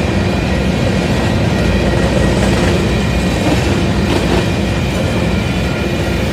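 Loaded covered hopper cars of a freight grain train rolling past: a loud, steady rumble and clatter of steel wheels on the rails, with a sharper click about four seconds in.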